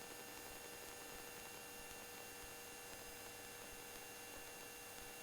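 Faint steady hiss with a few steady hum tones and no distinct event: a low background noise floor.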